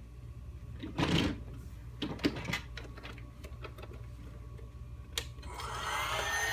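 Plastic clicks and rattles of a toy vacuum cleaner being handled, then near the end its small electric motor is switched on with a click and whines up to speed, settling into a steady high whine.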